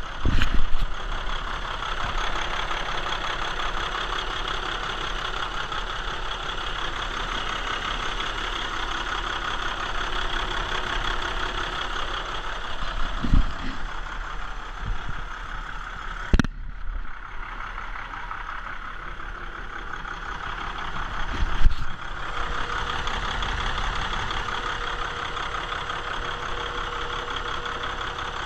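Volvo D13 inline-six diesel engine running steadily at idle. A few louder thumps break in, the sharpest about 16 seconds in, after which the sound is duller for several seconds.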